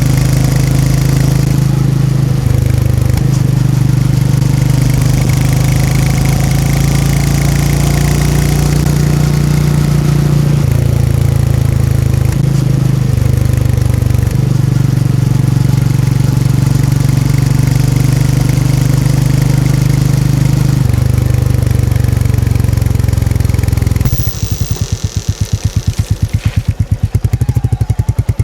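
Royal Enfield Meteor 350's single-cylinder engine and exhaust under way, its note stepping up and down several times as the gears change. About four seconds before the end it drops to idle, an even pulsing beat.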